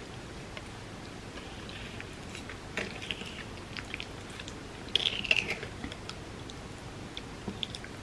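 Close-miked eating of creamy rice pudding: soft wet mouth sounds and chewing, made up of scattered sticky clicks with a louder cluster about five seconds in, over a steady hiss.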